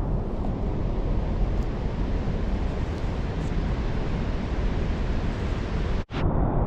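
Waterfall rushing close by: a loud, steady, dense noise, broken by a brief cut about six seconds in.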